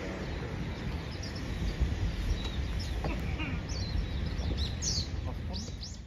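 Small birds chirping in short high calls, more often in the second half, over a steady low outdoor rumble.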